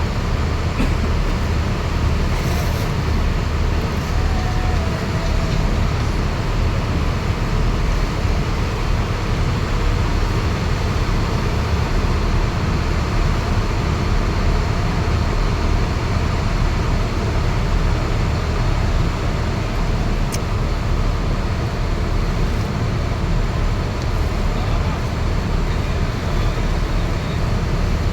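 Steady low rumble of a passenger car ferry's engines running as the ship comes in to dock.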